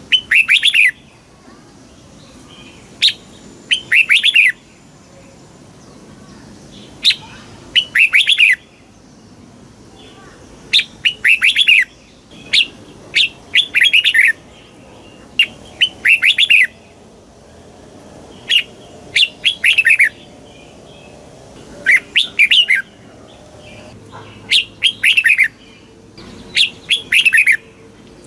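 Red-whiskered bulbul singing: short, bright phrases of a few quick falling notes, repeated about every three to four seconds.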